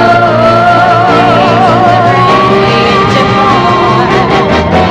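Live soul-pop music: female voices holding long notes with vibrato over a backing band with a steady bass line.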